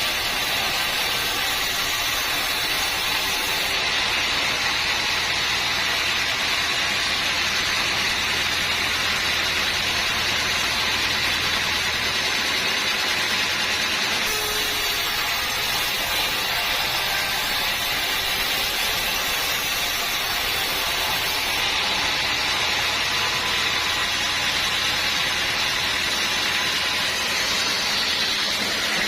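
Sawmill machinery running steadily while sawing teak logs, a continuous even noise that holds the same level throughout.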